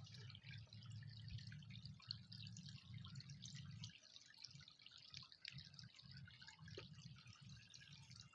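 Faint trickling and dripping of a small river running over rocks, with a steady low rumble underneath.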